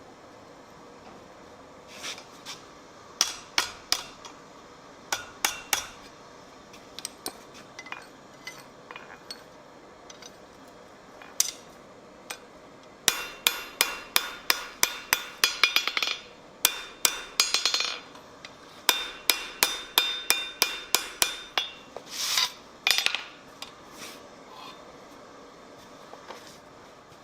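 Blacksmith's hand hammer striking steel on an anvil, each blow ringing. A few scattered blows come first, then about halfway a fast run of about four blows a second, then shorter groups.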